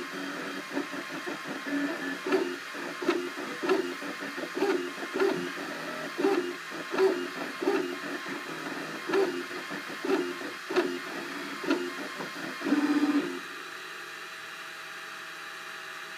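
Cubify 3D printer's stepper motors buzzing in short pitched bursts with clicks, about two a second, as the print head moves. About 13 s in there is one longer steady tone, then the motors give way to a quieter steady hum.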